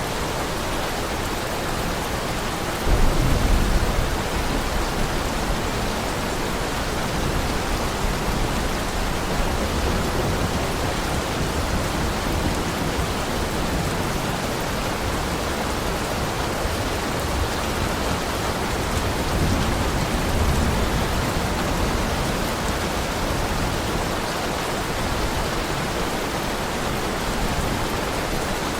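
Heavy rain falling steadily, with a low rumble of thunder about three seconds in and a fainter one around twenty seconds in.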